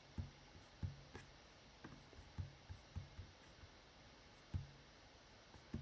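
Faint, irregularly spaced computer mouse clicks, about nine of them, over a low steady hiss.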